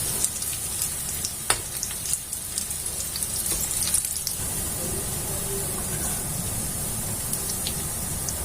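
Chicken pieces frying in hot oil in a pan: a steady sizzle with scattered crackles and pops, and one sharper pop about a second and a half in.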